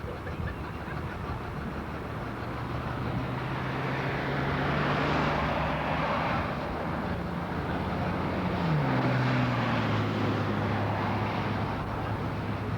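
Engine of a passing motor vehicle: a steady hum over a rushing noise that swells and then eases, with the hum dropping in pitch about nine seconds in as it goes by.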